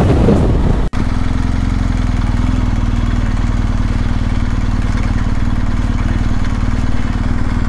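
Wind noise on a helmet-mounted camera at highway speed, then, after a break about a second in, a BMW R 1250 GS Adventure's boxer-twin engine running slowly with a steady, even beat as the motorcycle rolls in at low speed.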